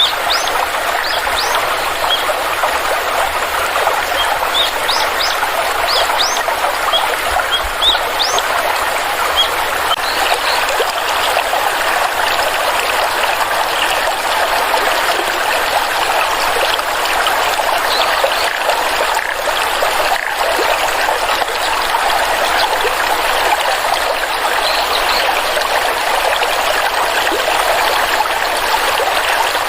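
Small water stream trickling and flowing steadily, with a scatter of short, high rising notes in the first ten seconds or so.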